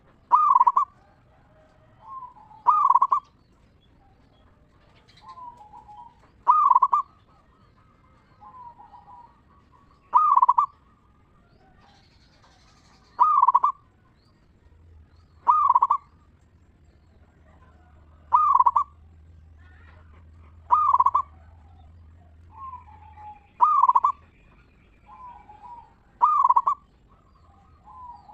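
Zebra dove (perkutut) cooing: a loud, bright call repeated about every two and a half to three seconds, with softer coos in between.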